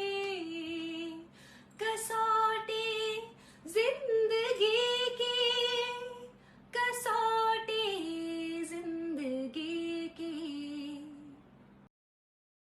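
A woman singing a Hindi song solo, in several phrases with long held notes. The singing cuts off suddenly near the end.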